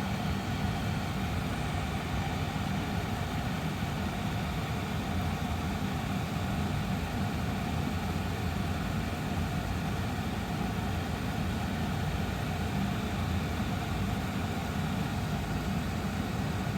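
Austin Air HealthMate air purifier's fan running steadily: a low motor hum under an even rush of air.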